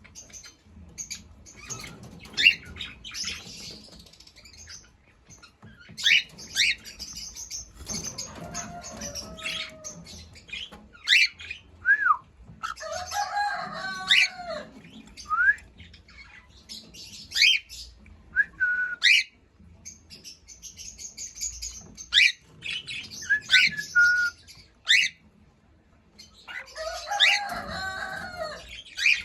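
Cockatiel chirping and calling, with many short whistled chirps that sweep up or down in pitch and a few longer, harsher calls, mixed with scattered short clicks.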